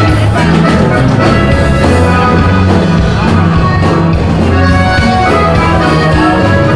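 A norteño band playing a song's instrumental introduction, with a steady bass line under the melody and no singing.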